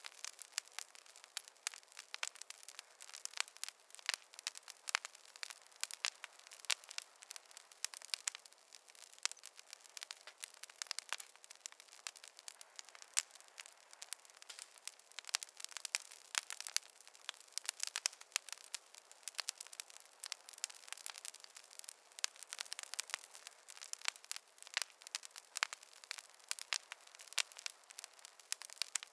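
Wood fire crackling in a fireplace: a steady run of small, irregular pops and snaps with a light hiss, thin and without any low rumble.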